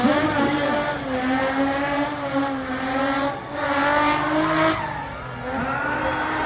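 Spinning car's engine held at high revs during a spinning run, its pitch wavering up and down. The revs dip briefly about three and a half seconds in and again around five seconds, then climb back.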